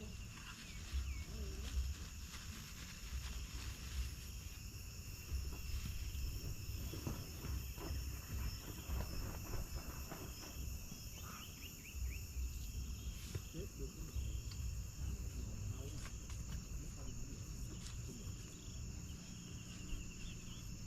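Steady, unbroken chorus of insects such as crickets or cicadas, shrilling at several high pitches at once, over an uneven low rumble.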